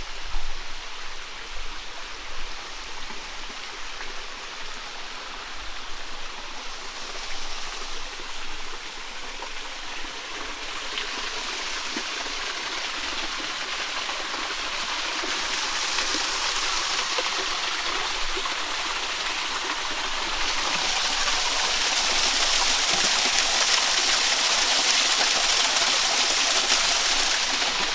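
Waterfall rushing steadily, growing louder from about ten seconds in and loudest in the last several seconds.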